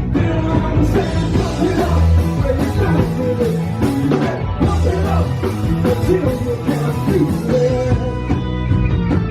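A live rock band playing loudly, a voice singing over electric guitars, bass and drums.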